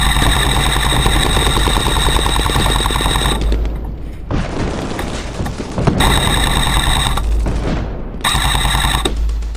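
Airsoft electric light machine gun (M249/MK46-type AEG) firing full-auto, its motor and gearbox making a fast, steady rattling whine. A long burst stops about three and a half seconds in, followed by two shorter bursts.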